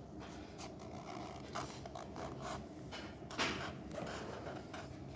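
Drawing on paper: a series of short, scratchy strokes as a circle for a truck wheel is drawn, the strongest a little past halfway.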